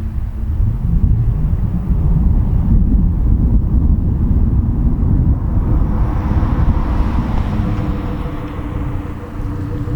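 Volvo V70 2.5T's turbocharged five-cylinder exhaust through a catless downpipe, a loud, steady deep rumble. A rushing noise builds from about six seconds in and eases off near the end.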